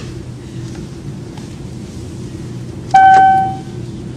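Steady airplane cabin hum. About three seconds in comes a single loud ding of the flight-attendant call chime, ringing out and fading within a second.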